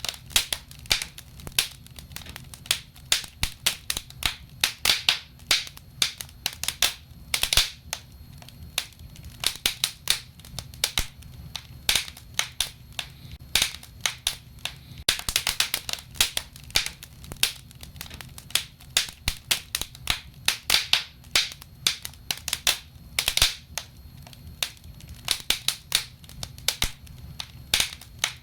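Wood fire burning in a fireplace, crackling and popping irregularly, with quick flurries of snaps over a steady low rumble.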